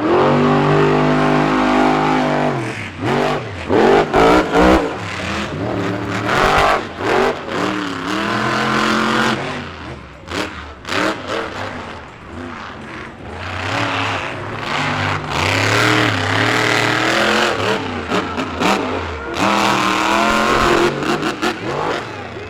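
Monster truck engines revving hard, their pitch rising and falling again and again as the throttle is worked during racing.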